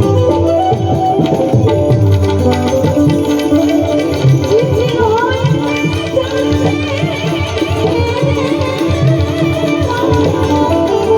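Loud Indian music led by tabla drumming, with a melodic instrument playing wavering, ornamented lines over the drums.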